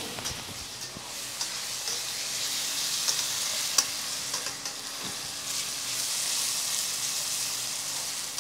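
Chopped onions and green chillies sizzling in hot oil in a stainless steel pan, with a spatula stirring and scraping against the pan. Scattered clicks of the spatula on the metal, the sharpest one a little under four seconds in.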